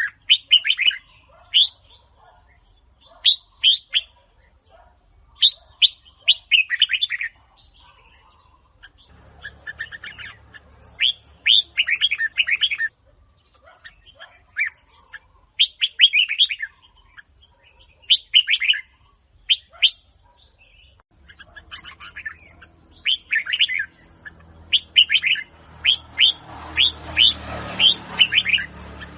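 Red-whiskered bulbul of the Huế song type singing: short, bright phrases of rapid whistled notes, repeated again and again with brief pauses between them.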